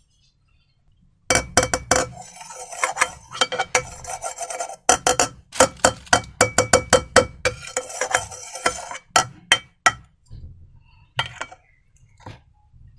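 Slime being stirred and squished in a container: a quick run of crisp clicks and pops with wet rubbing between them, thinning out to a few single clicks near the end, with a faint ring from the container.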